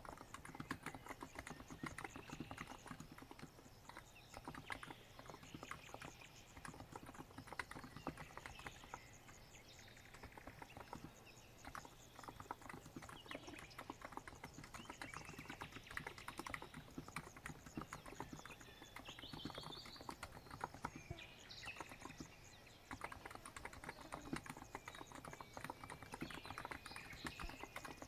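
Continuous typing on a COX Empress electro-capacitive keyboard: a quick, soft run of keystroke clicks with a brief pause a little over three-quarters of the way through. Faint bird chirps sound in the background.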